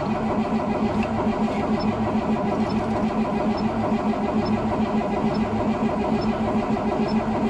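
International DT466E inline-six diesel in a 2003 Blue Bird bus being cranked by its starter in 11°F cold without its block heater plugged in: the engine turns over steadily with an even pulsing rhythm but does not catch. A faint high tick comes about once a second.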